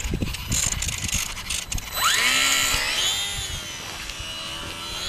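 Carbon Cub S2 RC airplane's electric motor and propeller whining. The pitch rises sharply about two seconds in as the throttle comes up, wavers, eases off, and climbs again near the end. The first two seconds hold only scattered clicks and a low rumble.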